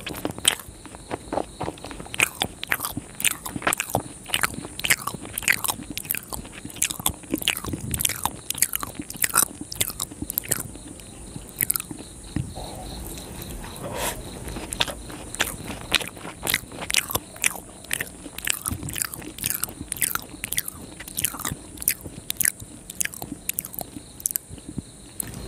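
Close-miked chewing of soft, syrupy Indian sweets, laddoos among them: a continuous run of wet, sticky mouth clicks, several a second.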